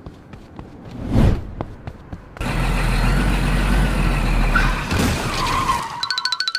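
A vehicle sound effect: a short whoosh of something passing, then an engine running loud with a deep rumble for about three and a half seconds.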